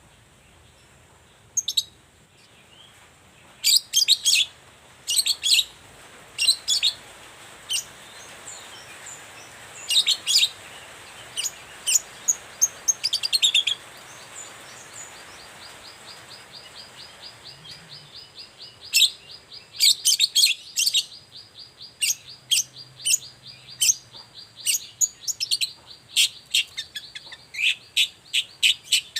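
Long-tailed shrike calling in clusters of short, sharp, high calls. From about halfway a fast, even trill runs underneath.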